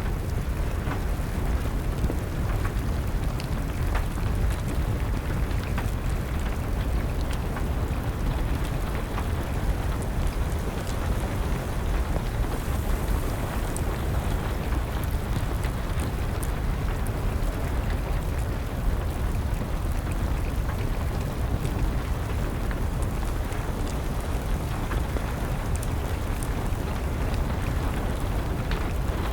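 Steady rain with a low, even rumble, and a wood fire crackling, with scattered sharp pops throughout.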